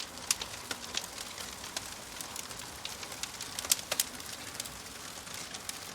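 Wood fire crackling: irregular sharp pops and snaps of burning logs over a steady hiss, with one louder pop past the middle.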